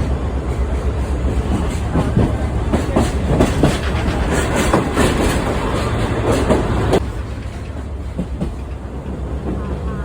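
Sightseeing trolley train running along the track, its carriages rattling with irregular clickety-clack knocks over a steady low rumble. The rattling drops off abruptly about seven seconds in, leaving a quieter rumble.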